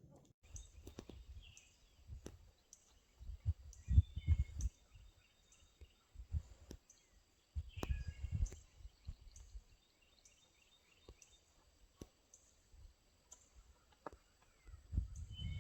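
Outdoor ambience: birds chirping with short, repeated high calls, over irregular low rumbles.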